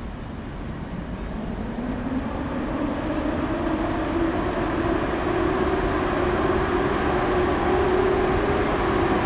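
Electric train accelerating: its traction motors give a whine that rises in pitch over several seconds and then levels off, over a steady running rumble that grows louder.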